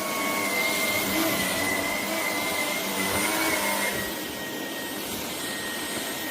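Shark PowerDetect cordless stick vacuum running steadily with a high-pitched whine. About four seconds in, it gets a little quieter and the whine fades as the vacuum adjusts its power automatically after detecting carpet.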